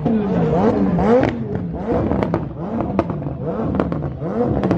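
A car engine being revved in repeated quick blips, its pitch rising and falling about once a second, with sharp exhaust pops and crackles over the revs from about two seconds in.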